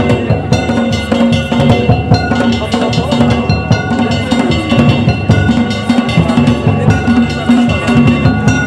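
Danjiri festival music (hayashi) from the float: taiko drums beaten in a fast, continuous rhythm under ringing metal hand gongs (kane), with no pause.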